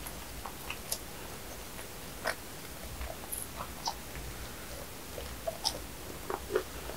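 Close-miked chewing of soft custard-filled bread: quiet wet mouth clicks and smacks, with a few sharper ones near the end.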